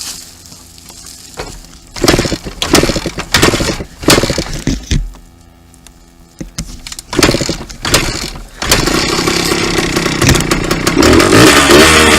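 Two-stroke dirt bike engine being restarted: it fires and sputters in short bursts with quieter gaps, then catches about nine seconds in and keeps running, revving up near the end.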